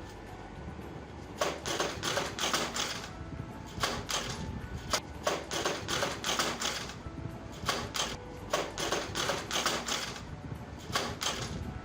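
Clusters of rapid, irregular knocks and rattles, coming in bursts with short gaps between them, over background music.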